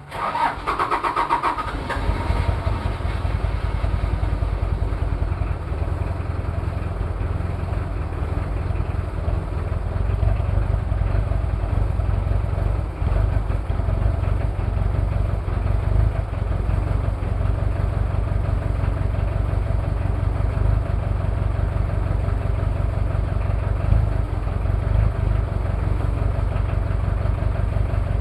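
Toyota 2L-T 2.4-litre four-cylinder turbodiesel cold-starting: a brief crank, then it catches and settles into a steady, loud, pulsing idle. The uploader puts the idle down to one bad injector and possible cylinder head trouble.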